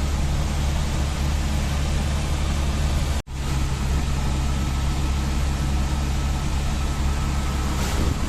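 Steady engine hum and road noise from a moving vehicle, with a hiss across the whole range. The sound cuts out for an instant about three seconds in.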